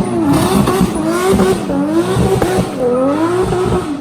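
Car engine revving high, its pitch swinging up and down again and again, with tyre squeal: a car being driven sideways in a drift.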